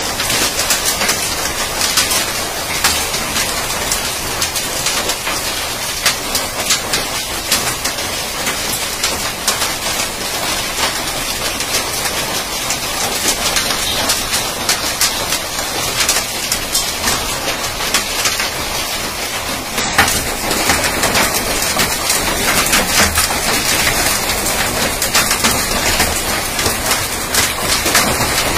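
Heavy hail falling, a dense, steady patter of many small impacts over a rain-like hiss.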